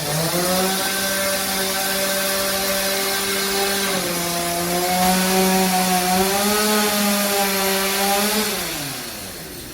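Chainsaw running under load while cutting timber, its pitch holding steady with small wavers, then falling away as the throttle is released near the end.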